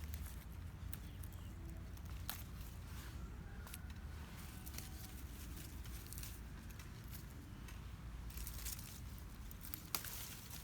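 Faint rustling of tomato vines and leaves being handled while ripe fruit is picked, with scattered small clicks and snaps over a low steady rumble.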